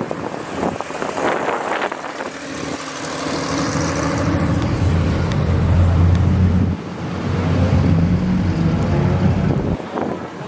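A car engine driving past at low speed: a deep, steady engine note builds over a few seconds, dips briefly, then cuts off suddenly near the end, over wind buffeting the microphone.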